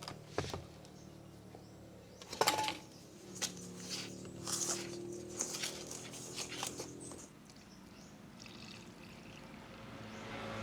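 Sugar poured into a mixing bowl in several short grainy hisses, after a sharp knock of a container about two seconds in.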